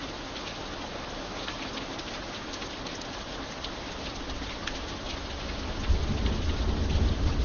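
Steady rain falling, an even hiss with scattered sharp drop ticks. About six seconds in, a deep rumble of thunder sets in and grows louder.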